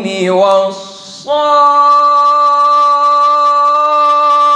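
A male Quran reciter's voice in melodic tajweed recitation. It ends a phrase with a falling glide, pauses briefly for breath, then holds one long steady note for about three and a half seconds.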